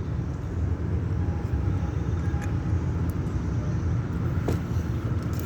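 Idling diesel truck engine: a steady low rumble with a faint click about four and a half seconds in.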